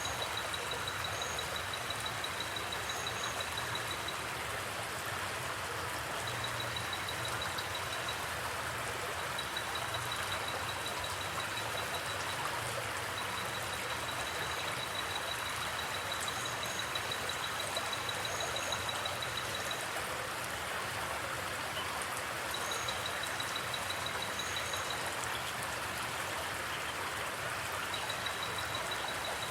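Creek water flowing in a steady rush. Over it, a high, rapid trill comes and goes in runs of a few seconds, with brief paired chirps higher still.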